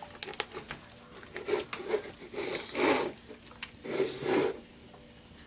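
Puppy eating from its food bowl: irregular chewing, rubbing and scraping with small knocks as it shoves the bowl about.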